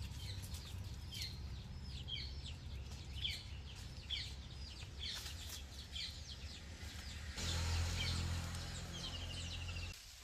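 Birds chirping over and over, short high calls falling in pitch, one or two a second, with a brief rapid trill near the end. Under them runs a low steady rumble that swells for the last couple of seconds.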